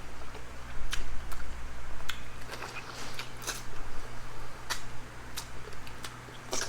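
Eating sounds: chewing with sharp, short clicks every second or so, the clicks of spoons, teeth or fish bones during a meal of chicken soup and fried fish.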